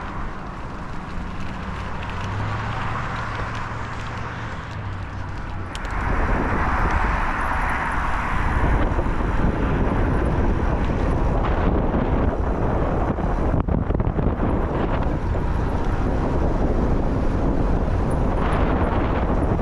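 Wind buffeting the microphone while riding, turning suddenly heavier about six seconds in and staying loud. Before that, a low steady hum runs under the wind.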